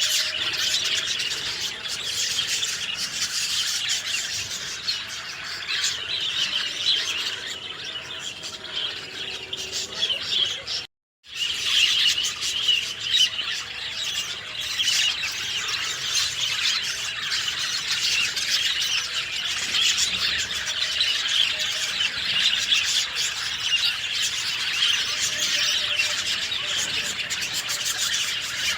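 A dense chorus of many small birds chirping and twittering together, steady throughout. The sound drops out completely for about half a second around eleven seconds in, then the chorus resumes.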